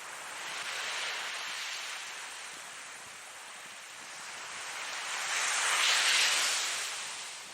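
Ocean waves breaking and washing in, rising and falling in two swells: a smaller one about a second in and a louder one around six seconds.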